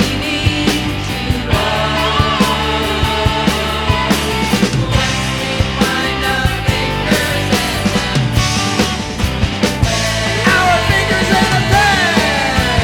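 Rock band music with no voice: a steady drum beat under sustained guitar and bass chords, with pitches sliding up and down near the end.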